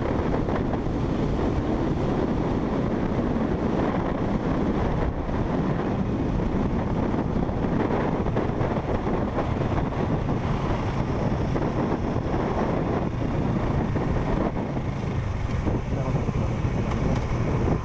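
Wind buffeting a motorcycle rider's microphone over a motorcycle engine running at a steady cruise.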